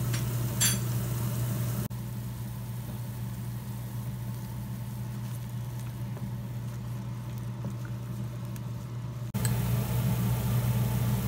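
Onion paste frying in oil in a stainless steel pan, with a faint sizzle and a few scrapes of a wooden spatula, over a steady low hum. The sound drops quieter about two seconds in and comes back up near the end.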